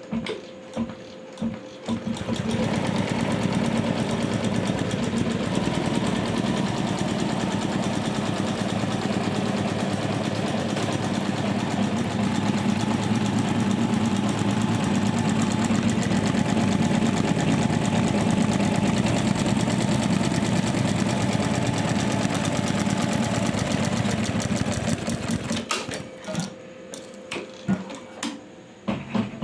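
Computerized embroidery machine stitching at speed: a fast, steady, even rattle that starts about two seconds in and stops a few seconds before the end. Scattered short clicks and taps come before it starts and after it stops.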